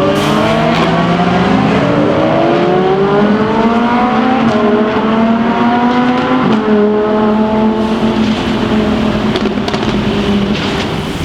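Lamborghini supercar engine accelerating, its pitch climbing for the first few seconds, stepping down about four and a half seconds in, then holding fairly steady.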